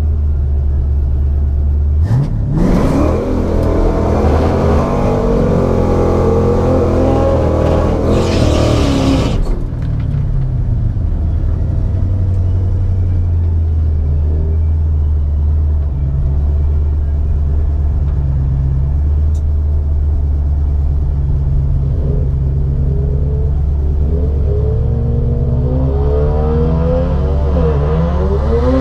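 Mustang 5.0 V8 drag car accelerating hard, its engine pitch climbing for about seven seconds before dropping back to a steady low rumble. Near the end the engine revs up and down again.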